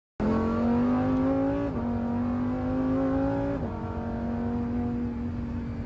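Car engine heard from inside the cabin, accelerating hard through the gears: its pitch climbs, drops sharply at an upshift about a second and a half in, climbs again to a second upshift halfway through, then holds fairly steady.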